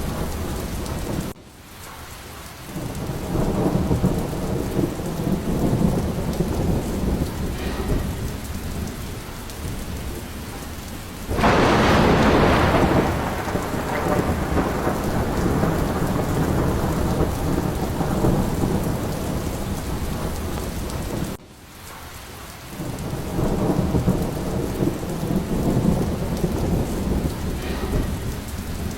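Steady heavy rain with rolling thunder. A sudden, loud thunderclap cracks about eleven seconds in and rumbles away over a few seconds. The sound drops off abruptly twice, near the start and about two-thirds of the way through, then builds back up.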